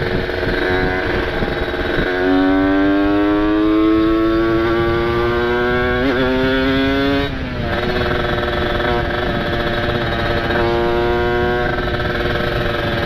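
Kawasaki Ninja RR's ported two-stroke single-cylinder engine under way: its note climbs steadily for about five seconds as it accelerates, drops abruptly, then holds a steadier pitch. Constant wind rush runs under it.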